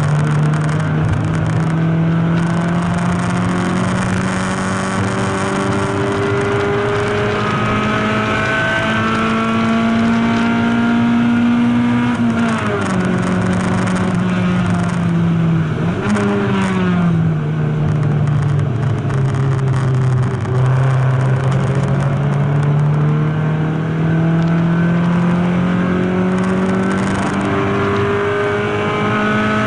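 Race car engine heard from inside the stripped cockpit, run hard on track. The revs climb steadily for about twelve seconds, fall sharply, rise and fall once more briefly, then climb again through the last third.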